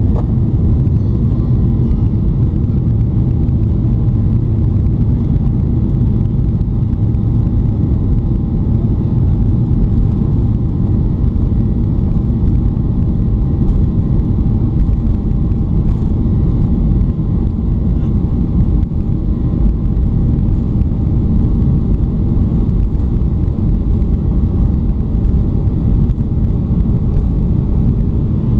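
Boeing 737-800 cabin noise: its CFM56 jet engines and the airflow make a loud, steady low rumble, with a faint steady whine above it.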